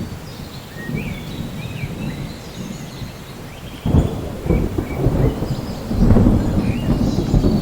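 Thunderstorm: rolling thunder over steady rain, the rumble swelling suddenly about four seconds in and growing louder again about six seconds in. Short high chirps sound above it.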